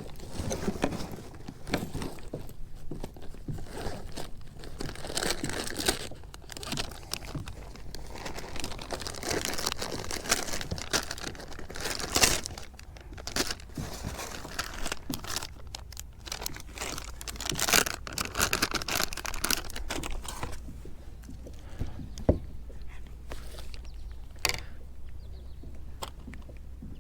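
Irregular crinkling and rustling close to the microphone, dense at first and thinning out about twenty seconds in to a few scattered clicks.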